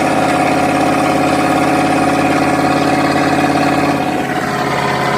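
Truck engine running at a steady speed, giving an even drone that holds one pitch; its lower notes fade about four seconds in.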